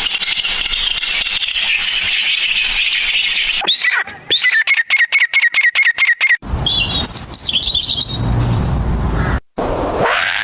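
A run of different bird sounds cut together: a steady high-pitched hiss, then a bird repeating a short chirp about four times a second, then a bird warbling over a low rumble, and then the hiss again.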